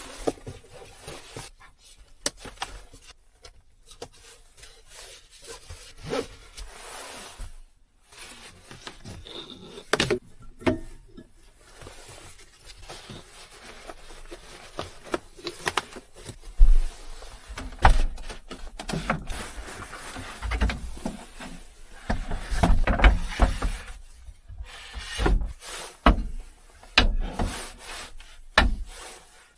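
Irregular rubbing and scraping noises with scattered short knocks, busiest and loudest in the second half.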